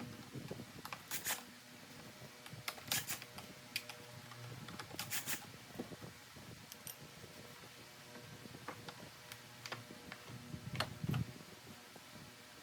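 Scattered clicks and a few short clattering bursts of parts and tools being handled during work on a car's HVAC assembly, over a faint steady hum.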